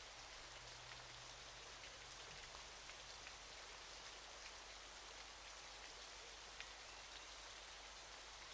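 Faint, steady hiss of falling water with a fine patter of droplets, even and unbroken.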